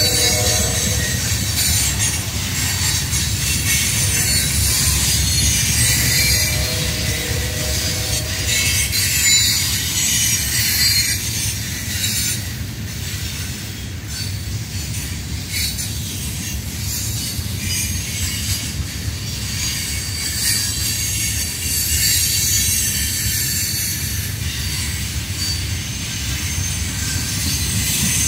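Loaded ballast hopper cars rolling past close by. Wheels rumble steadily on the rail, with high-pitched wheel squeal over the top that comes and goes.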